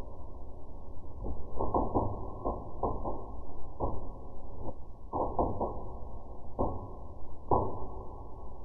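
Wood fire in a fireplace crackling, played back at half speed: irregular pops and snaps, some in quick clusters, over a steady low rumble.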